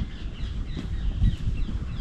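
Small birds chirping in short calls over a low, uneven rumble.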